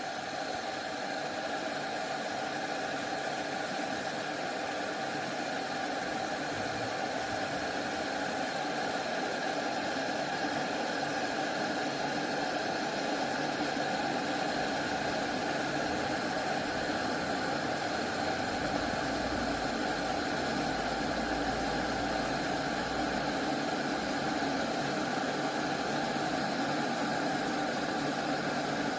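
Glass electric kettle heating water: a steady rushing hiss with a hum, growing gradually louder.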